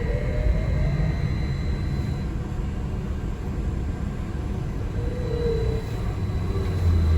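Cabin noise of a moving city bus: a steady low rumble with a brief whine at the start and again about five seconds in. The rumble swells near the end.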